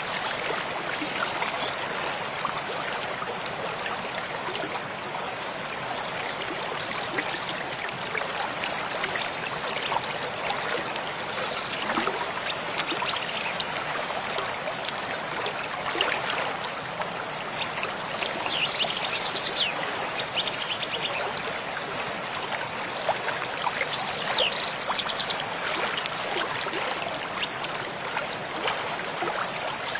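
Mountain stream flowing steadily with a continuous rushing, trickling sound. A songbird sings twice over it, quick high trills lasting a second or two each, about two-thirds of the way through and again a few seconds later.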